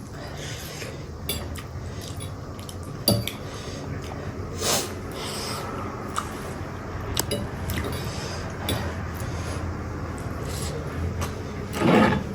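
Eating sounds at a table: cutlery clinking and scraping against plates and bowls, with a few sharp clinks and short rustling scrapes.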